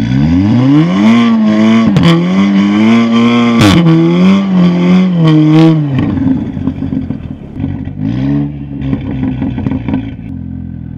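Audi S3's turbocharged 2.0-litre four-cylinder at full throttle from a standstill in snow on summer tires: the revs climb quickly, hang high and waver, then drop about six seconds in. A second, shorter rise comes near eight seconds, and a few sharp clicks sound during the run.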